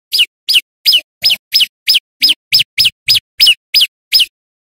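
Male prenjak lumut singing: a loud, rapid series of thirteen short, high notes, each sliding downward in pitch, about three a second.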